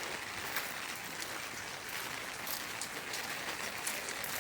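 Steady rain falling, a continuous hiss with scattered drips ticking on nearby surfaces.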